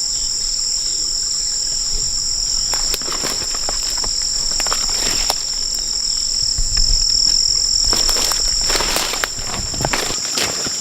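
Steady high-pitched chorus of rainforest insects, two unbroken shrill pitches held together. Scattered short clicks and knocks sound over it, busier from about eight seconds in.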